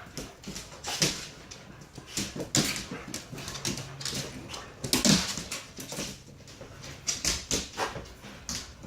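Pet dog whimpering in a string of short sounds, each broken off by a brief pause.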